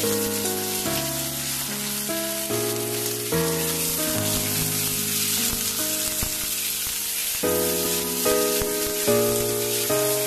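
Pork trotter pieces and peanuts sizzling in a hot wok as they are stirred with a metal ladle. Background music with a slow melody of held notes plays over the sizzle.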